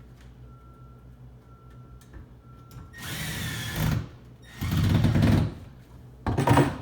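Power drill running in three short bursts, driving screws for the final tightening of a microwave's wall-mounting bracket.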